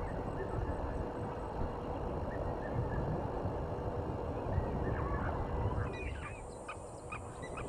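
Outdoor bush ambience: a low, uneven rumble with a few faint bird calls, then from about six seconds in a quick series of short, sharp bird calls repeating several times a second.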